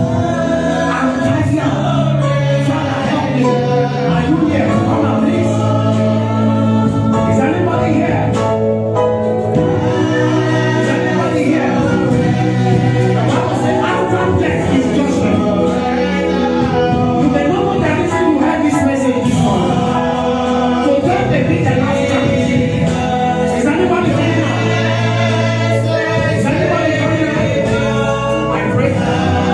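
Gospel music: a choir singing over a band with held bass notes.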